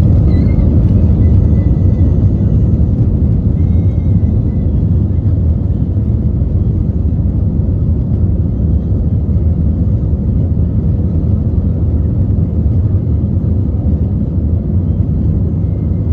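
Steady loud low rumble of an Airbus A320 heard from inside the passenger cabin: engine and airframe noise, easing off slightly toward the end.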